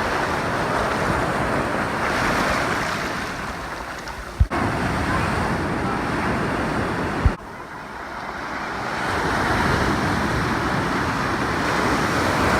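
Ocean surf: waves breaking and washing in, a steady rushing noise that swells and ebbs. Twice the sound breaks off with a sharp click and starts again, where clips are joined.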